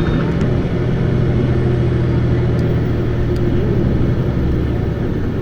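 Isuzu Erga (PKG-LV234Q2) city bus's diesel engine running as the bus drives along, a steady low rumble heard from inside the cabin.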